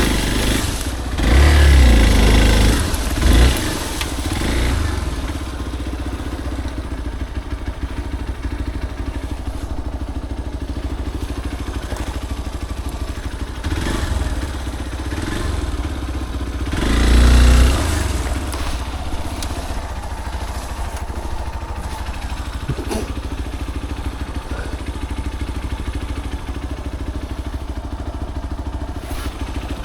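Motorcycle engine running steadily on an off-road trail ride, with louder low surges in the first few seconds and again about 17 seconds in.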